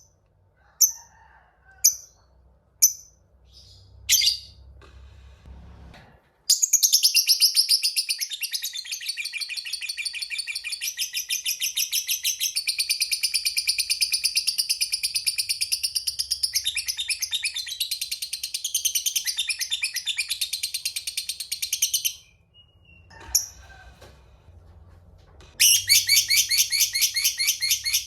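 Lovebird singing: a few single high chirps about a second apart, then a long, rapid chattering trill lasting about fifteen seconds, the prized 'ngekek panjang' of a fighter lovebird. After a short pause and one more chirp, a second rapid trill starts near the end.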